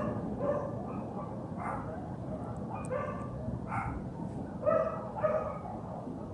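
A dog barking repeatedly, about six separate barks spread over a few seconds, over steady low background noise.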